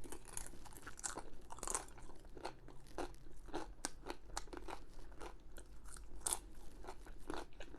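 Close-miked chewing of a mouthful of lamb rogan josh curry: a steady, irregular run of short mouth clicks, several a second.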